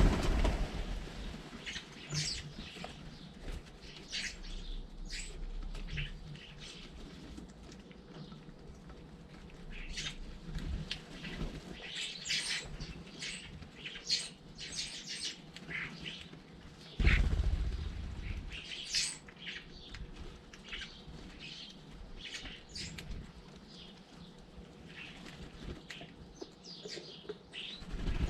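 Garden birds chirping and calling in short scattered notes while feeding at a bird feeder, with two loud flurries of wingbeats close by, one right at the start and one about seventeen seconds in.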